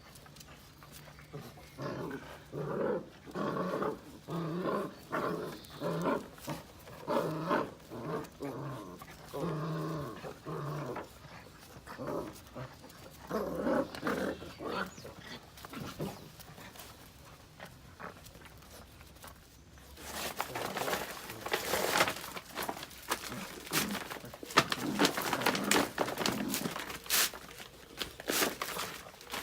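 Puppy giving a run of short vocal calls, about one a second, for the first half. In the last third come busy rustling and clattering noises.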